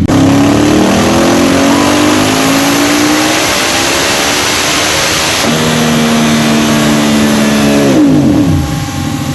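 Ducati motorcycle engine being revved. Its pitch climbs over the first few seconds and is held high, then drops back to idle near the end.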